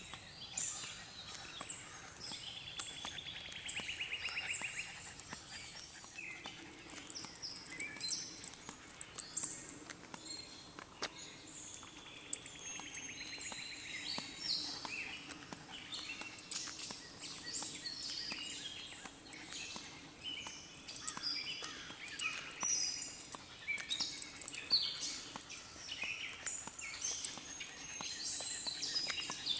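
Several songbirds chirping and singing, many short overlapping calls, with a fast trill heard twice, about two seconds in and again about twelve seconds in.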